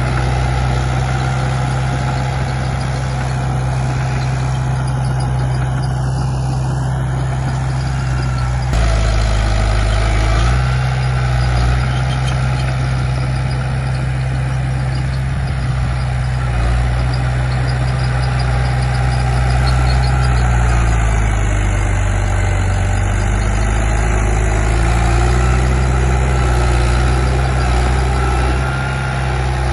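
Diesel engine of a Komatsu D31P bulldozer running steadily. Its tone changes abruptly about nine seconds in, and its pitch dips and recovers twice past the middle.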